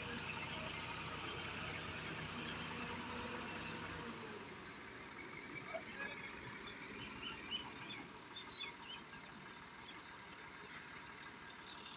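Massey Ferguson 240 tractor engine running steadily, its note dropping away and getting quieter about four seconds in. A few faint short chirps follow.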